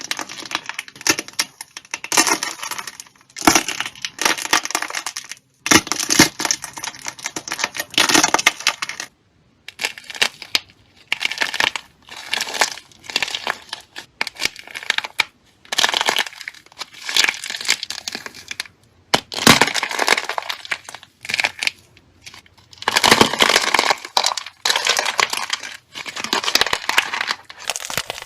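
Crunchy slime being crushed: a fragile, brittle outer shell crackles and breaks over a soft, squishy core. It comes in repeated crackling bursts of a second or two, with short pauses between them.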